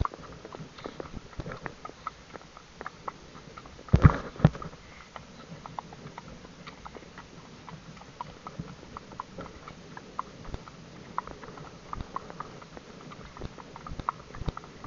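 Horses' hooves clopping as one horse is ridden and a second is led alongside, with a louder knock about four seconds in.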